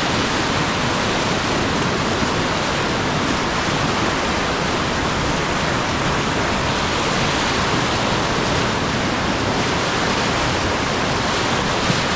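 Loud, steady rush of whitewater churning in a river hole on a rapid, heard from a raft surfing in it.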